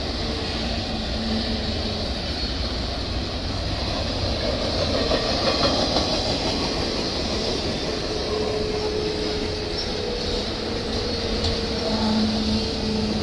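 Double-stack intermodal freight train's container well cars rolling past, a steady rumble and clatter of steel wheels on the rails. A faint thin whine joins about eight seconds in.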